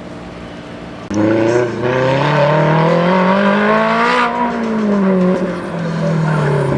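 Propeller airplane's engine, starting abruptly loud about a second in, its pitch rising and then falling as it manoeuvres past.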